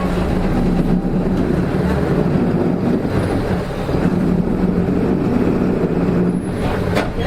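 Nissan Diesel KK-RM252GSN city bus's diesel engine running steadily under way, heard from inside the bus as a steady drone. It carries the abnormal engine noise the uploader notes this bus had developed. A short click comes near the end.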